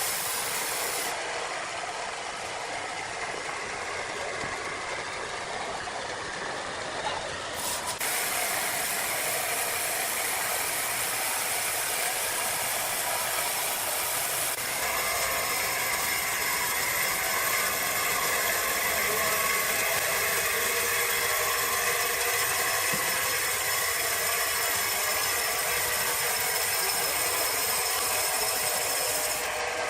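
Sawmill machinery running steadily, a mechanical rattling din, its character changing abruptly about a second, eight seconds and fifteen seconds in.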